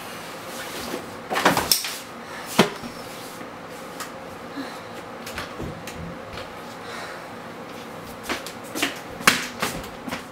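Scattered knocks and clatters of household objects in a small room: a cluster near the start, one sharp knock a little later, and another cluster near the end.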